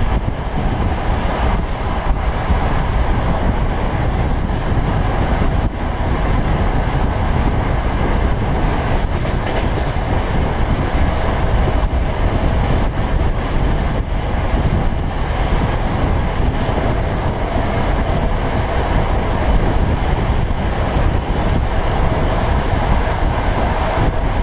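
Electric passenger train running at speed, heard from outside the carriage window: a loud, steady rush of wind and wheel-on-rail noise.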